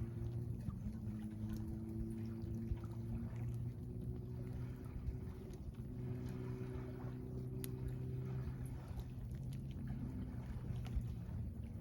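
A steady low engine hum runs throughout, its pitch drifting slightly. On top of it are a few faint sharp crackles from wood burning in a Solo Stove fire pit.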